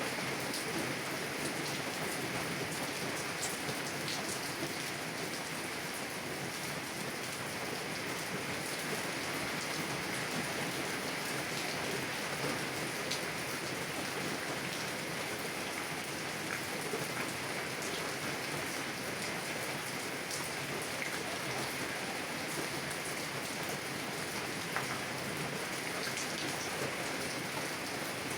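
Heavy rain falling on a car's windows, heard from inside the car: a steady hiss flecked with the ticks of single drops.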